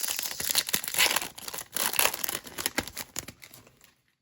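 Trading-card pack wrapper crinkling and tearing as it is ripped open by hand, a dense crackle that dies away shortly before the end.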